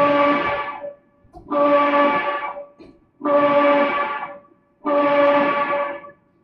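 Fire engine's air horn sounding in four long, steady-pitched blasts, repeated about every one and a half seconds, each fading away before the next.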